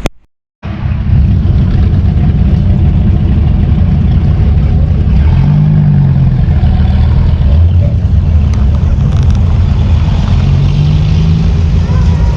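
A motor vehicle's engine running steadily, its pitch shifting up and down a couple of times as the revs change.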